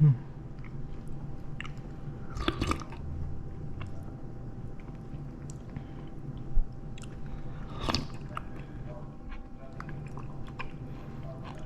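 A person eating, with chewing mouth sounds and scattered small clicks over a steady low hum, plus a short low thump at the start and another about six and a half seconds in.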